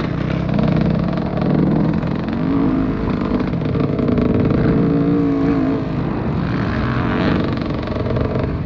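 Motocross dirt bike engines running on the track, their pitch rising and falling as they rev and ease off.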